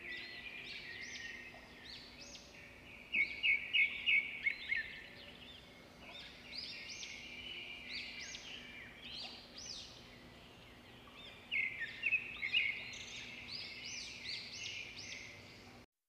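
Small forest birds chirping: many short, high chirps in quick clusters, louder for a couple of seconds about three seconds in and again after about eleven seconds.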